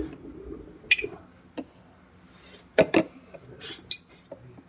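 Metal tools and parts being handled in a work area: scattered clinks and knocks, the loudest a quick double knock about three seconds in, with short stretches of rubbing and scraping between them.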